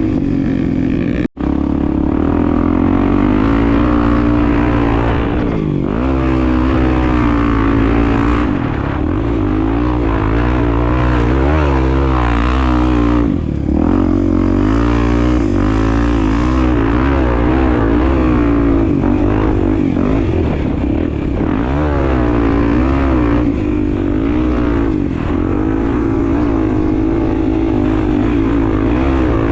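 Honda Tornado 250's single-cylinder four-stroke engine running under way off-road, its revs rising and falling constantly with the throttle. The audio drops out briefly about a second in.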